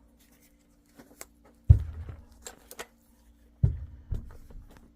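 Metal engine parts and tools being handled on a workbench: two dull knocks about two seconds apart, each followed by light clicking and clatter.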